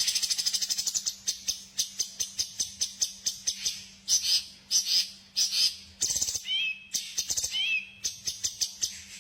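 Songbird chirping from a bird-training recording: a fast chattering trill in the first second, then quick, high, sharp chirps several a second, with two short down-slurred whistles about two-thirds of the way through.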